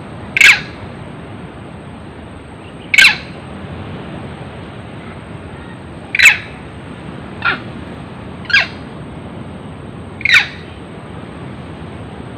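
Six short, sharp animal calls spaced a few seconds apart, each dropping quickly in pitch, over a steady background hiss.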